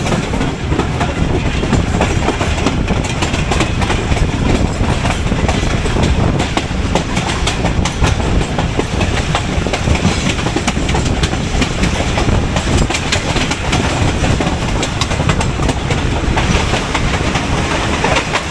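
Passenger train running along the track: a loud, steady rumble from the wheels and coach, with rapid clicks of wheels over rail joints throughout.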